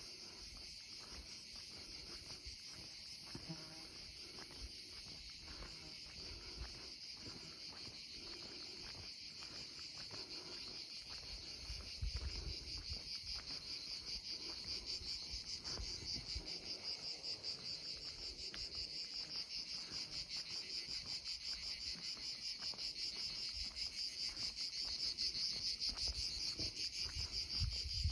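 Insects chirring in a steady, high-pitched chorus with a fast pulsing beat, growing louder toward the end, with occasional low rumbles underneath.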